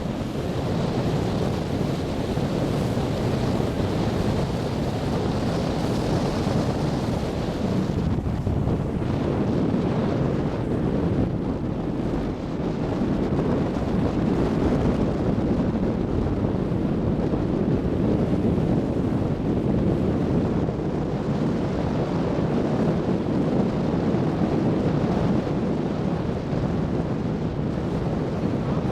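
Wind buffeting the microphone over the steady rumble of a diesel tour boat under way, with water rushing past the hull.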